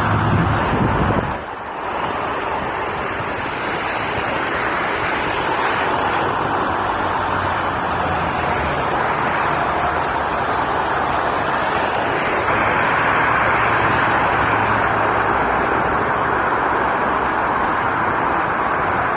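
Steady roar of an airliner's jet engines, with a brief dip about a second and a half in and the roar growing slightly louder around twelve seconds in.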